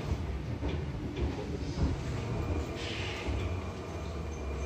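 Low, steady rumble of an Odakyu 8000 series electric train, with a few light clicks and a short hiss about three seconds in.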